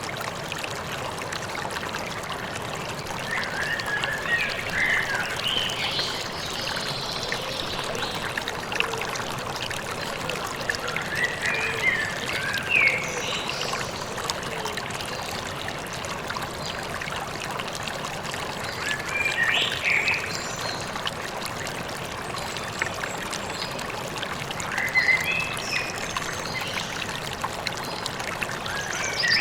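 Steady rush of a flowing river, with short bouts of bird chirping over it about four times.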